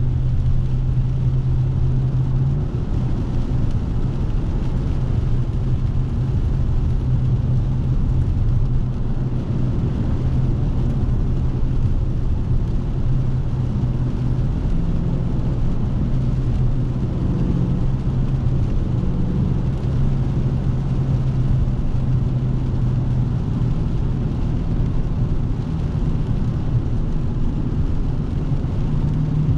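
Dodge Scat Pack's 392 (6.4-litre) HEMI V8 running at a steady low drone while cruising, with tyre and road noise underneath; the pitch shifts only slightly a few times, with no hard revving.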